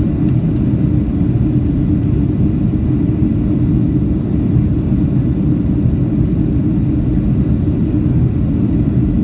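Steady cabin noise of a Boeing 737-800 in flight, heard from inside the passenger cabin: a loud, even rumble of engines and airflow with a steady hum over it.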